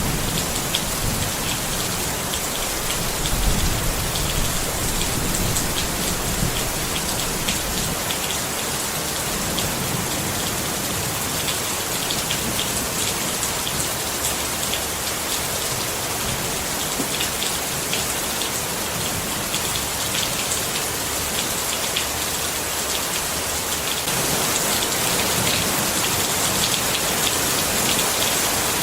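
Steady rain falling on a tent, with many small drop hits. A low rumble swells and fades in the first several seconds, and the rain gets a little louder near the end.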